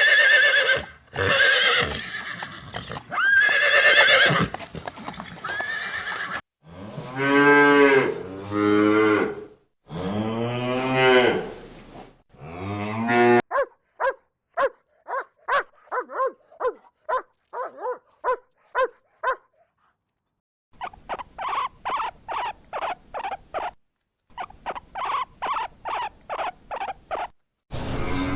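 A run of farm animal calls, one recording after another with short gaps between, cattle mooing among them. In the second half come fast runs of short calls repeated several times a second.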